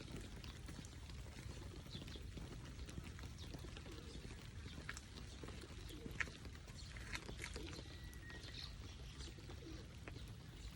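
Faint park ambience in the rain: a steady low rumble with scattered drips and brief bird calls, and a short whistled bird note about eight seconds in.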